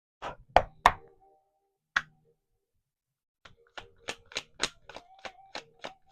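Light taps or clicks on a hard surface: a few irregular taps, then a steady run of about three taps a second in the second half.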